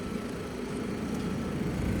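City street traffic: the low rumble of vehicle engines running, swelling louder near the end as a vehicle draws closer.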